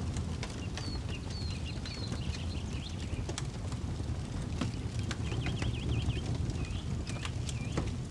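Campfire crackling with scattered sharp pops over a low steady rumble, while small birds chirp: a few short whistled notes in the first half, a rapid trill about five seconds in, and hooked calls near the end.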